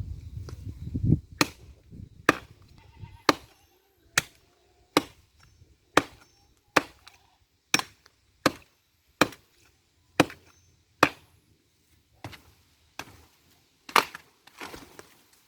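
Firewood being chopped: a blade strikes wood about once a second, some sixteen sharp chops in a steady rhythm.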